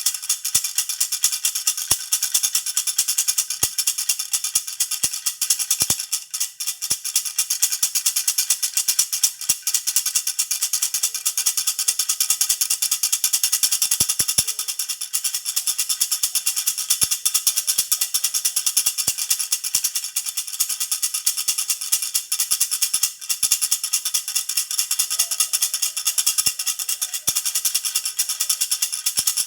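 Jhunjhuna baby rattle shaken rapidly and without stopping, a dense high jingling that briefly eases twice.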